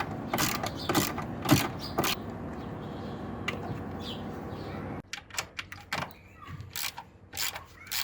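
A series of sharp knocks and clicks over a steady background noise. The noise cuts off suddenly about five seconds in, and sparser clicks go on after it.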